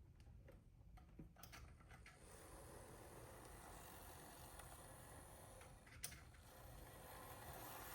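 Faint whir of a Z-scale AZL SD60M model locomotive's small motor running along the track. The whir sets in about two seconds in and grows a little louder, with a few light clicks, the sharpest near six seconds in.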